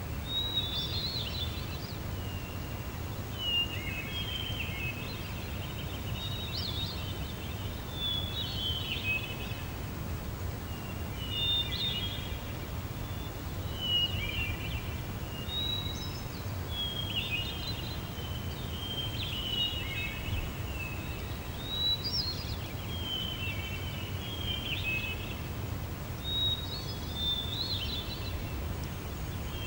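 Birdsong: a songbird repeating short chirping phrases, roughly one every one to two seconds, over a steady low rumble.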